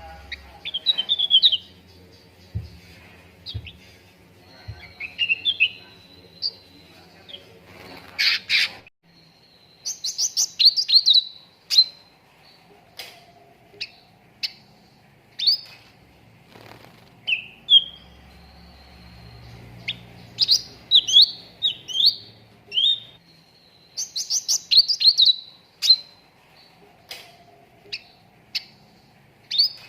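Cucak ranting songbird singing: bursts of quick, sharp chirps and short warbled phrases, repeated every second or two.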